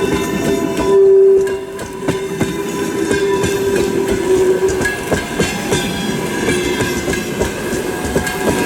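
Express passenger train hauled by an EP2K electric locomotive rolling past at speed, its wheels clattering over the rail joints. About a second in, a loud steady tone sounds briefly and then fades over the next few seconds.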